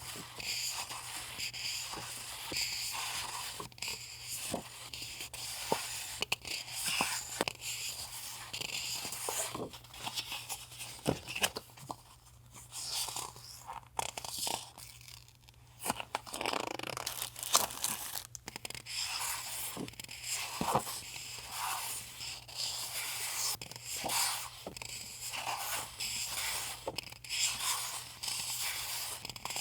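Packaging and paper items being handled and unwrapped: ongoing crinkling and rustling with frequent light taps and clicks. A refrigerator hums steadily underneath.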